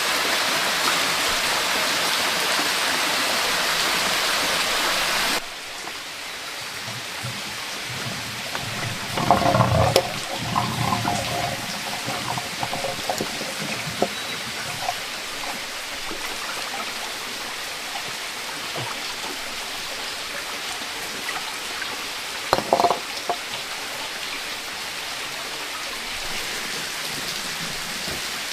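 Heavy rain falling in a steady hiss, dropping suddenly to a quieter rain about five seconds in, with a few brief louder sounds over it later.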